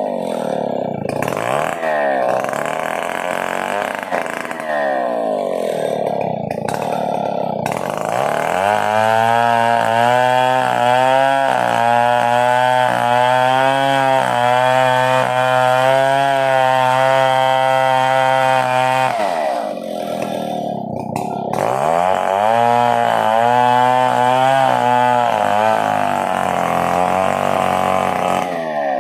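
Stihl 070 two-stroke chainsaw running and revving up and down, then held at a steady high speed for about ten seconds. It drops back briefly about two-thirds of the way through, then revs up again.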